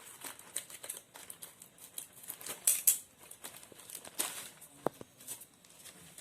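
Parcel packaging being opened by hand: plastic and wrapping crinkling and tearing in irregular rustles and clicks, loudest about three seconds in, with a brief squeak near the end.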